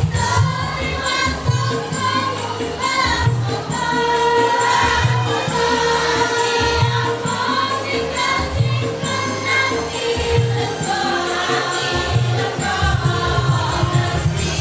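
Choir singing over a backing with a steady low beat and jingling percussion.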